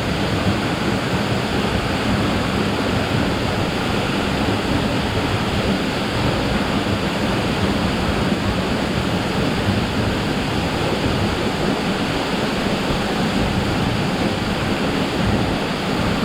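Waterfall rushing, a steady loud wash of falling water.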